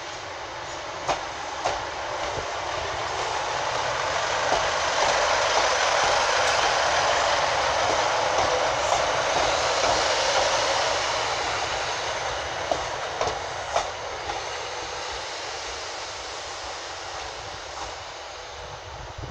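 Two-car Class 156 diesel multiple unit arriving at the platform and rolling past at low speed, its engine and wheel noise swelling to a peak about halfway through and then fading as it runs on along the platform. Occasional sharp clicks sound over the noise.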